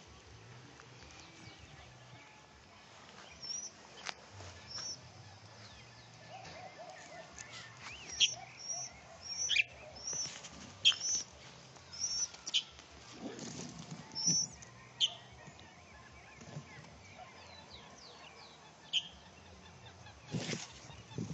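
Small birds calling: a series of short, high chirps repeated at irregular intervals, with a few scattered knocks and a louder knock near the end.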